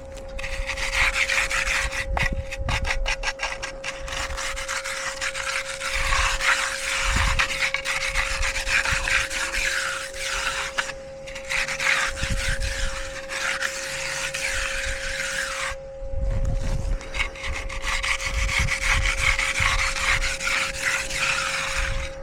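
Hand concrete edger scraping along the edge of fresh concrete in repeated strokes, pausing briefly twice, with a faint steady hum underneath.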